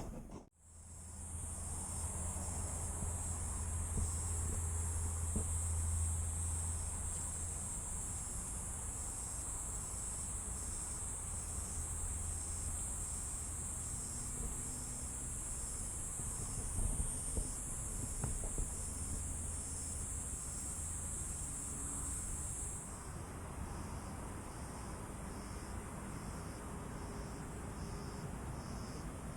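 Insects chirring: a steady high buzz that cuts off suddenly about two thirds of the way through, over a second insect's repeating pulsed chirp that continues throughout.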